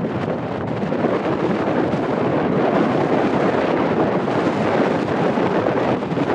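Steady roar of a Boeing 747-400F's four jet engines, a deep even rumble that swells slightly towards the middle.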